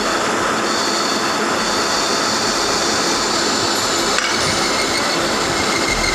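Metal lathe turning steel: a steady, harsh cutting noise with a thin high-pitched whine. A second, lower whine joins about four seconds in.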